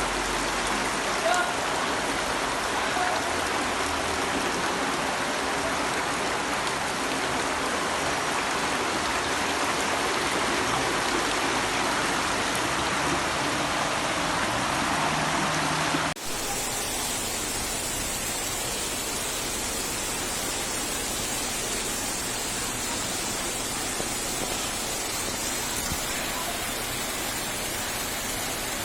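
Steady hiss of heavy rain pouring down. About sixteen seconds in, the sound changes abruptly to another, slightly quieter stretch of the same kind of rushing rain noise.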